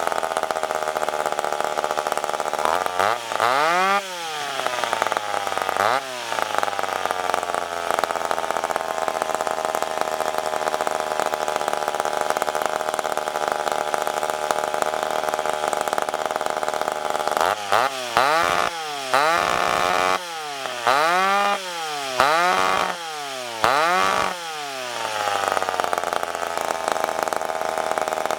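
Ported McCulloch Pro Mac 10-10 two-stroke chainsaw idling, revved up and back down twice, then blipped about five times in quick succession before settling back to idle.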